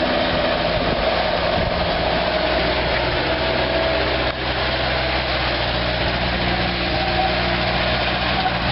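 2002 Bobcat A300 Turbo skid steer's turbocharged diesel engine running steadily at constant speed.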